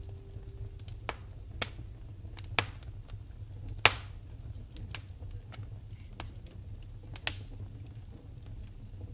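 Wood fire burning in a fireplace, crackling with irregular sharp pops, the loudest about four seconds in, over a low steady rumble.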